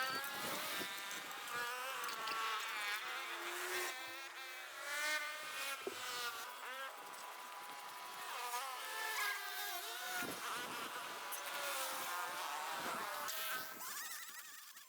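Small engine running with a high buzzing whine whose pitch rises and falls, fading near the end.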